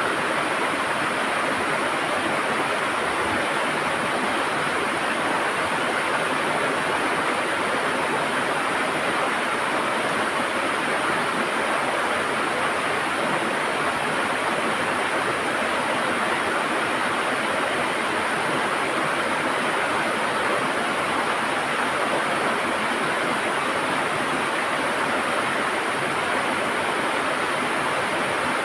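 River water flowing and gurgling: a steady, unbroken rush of moving water.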